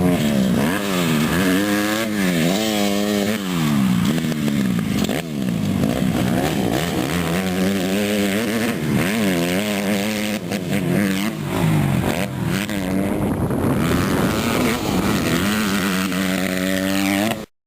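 A 150cc dirt bike's engine being ridden, its pitch climbing and dropping again and again every second or two as the throttle is opened and rolled off. The sound cuts off suddenly near the end.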